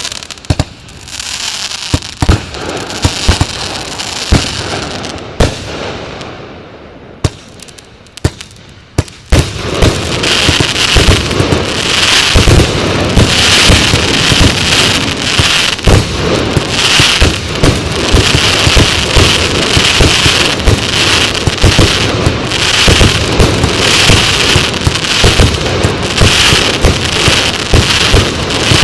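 A fanned firework battery (Show Box 2 cake) firing. The first nine seconds hold scattered single bangs and a fading crackle. From about nine seconds in it becomes a dense, continuous volley of shots and crackling.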